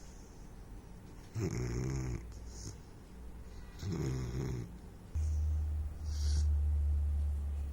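Saint Bernard puppy snoring: two snoring breaths about two and a half seconds apart, then a loud steady low rumble from about five seconds in.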